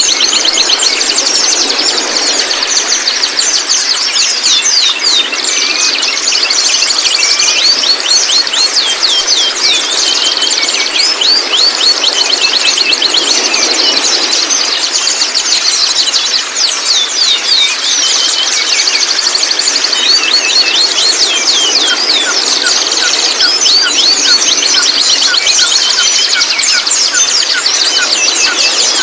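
Juvenile white-rumped shamas chattering: a dense, continuous stream of rapid high-pitched chirps, each sweeping quickly downward. From about three-quarters of the way in, a lower series of short, evenly repeated notes joins them.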